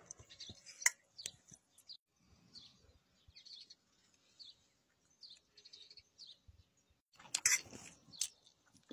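Faint bird chirps, with a fork clicking and scraping against a metal pot of noodles, loudest in a short run of clinks about seven seconds in.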